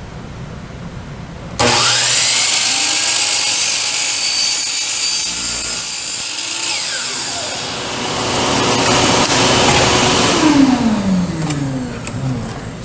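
Electric power saw cutting a small piece of plexiglass. The motor whines up suddenly about a second and a half in, runs through the cut, then spins down with a falling whine near the end.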